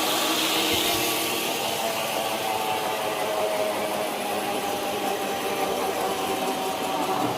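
Sawmill machinery's engine running steadily, with an even hum and no break or change.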